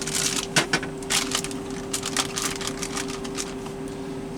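Plastic packaging and zip-top bags crinkling and rustling irregularly as food is handled and packed, busiest in the first half, over a steady low hum.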